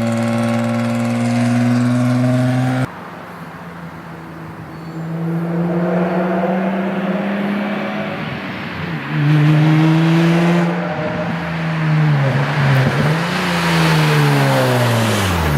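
Infiniti G35's built VQ35 V6 running with the exhaust silencers removed, held steady at first, then revved up and down several times. The exhaust sounds a little raspy and a little leaky.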